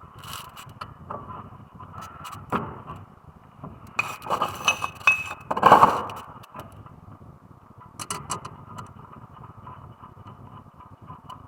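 Metal parts and hand tools clinking and knocking during brake work, in scattered clicks. A denser run of clinks with brief ringing comes about four to six seconds in.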